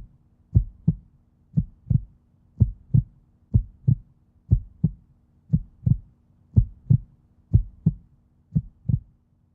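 Heartbeat sound effect: a slow, even lub-dub of paired low thumps, about one beat a second, over a faint steady hum.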